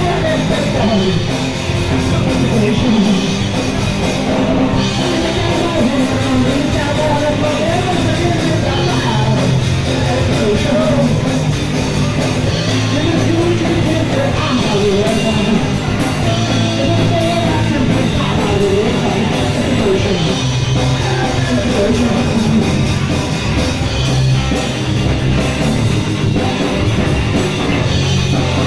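Live punk rock band playing: distorted electric guitars, bass and drum kit, with sung vocals over them.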